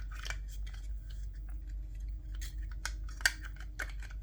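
Irregular small clicks and taps of plastic headset parts being handled and fitted together, with one sharper click just after three seconds and another right at the end.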